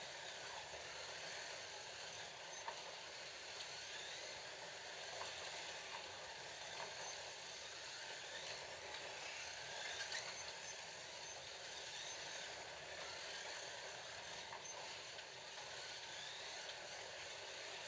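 Scalextric slot cars lapping the track: small electric motors whirring steadily, their pitch sliding up and down with the throttle, with a few faint clicks.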